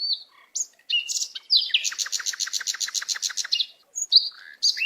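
Small birds chirping and singing, with a fast, even trill of about ten repeated notes a second through the middle.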